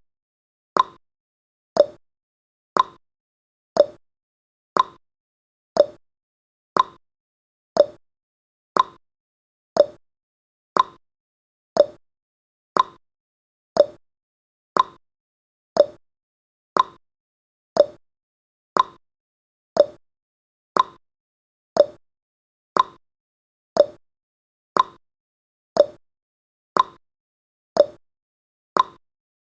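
Countdown timer's ticking-clock sound effect: one short, sharp tick each second, alternating between a higher tick and a lower tock.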